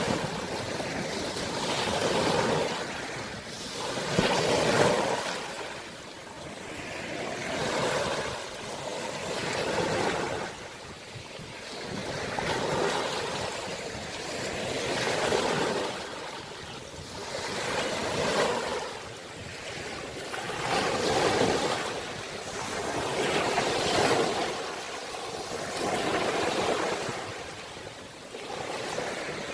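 Sea waves washing in, each surge swelling and fading again about every three seconds.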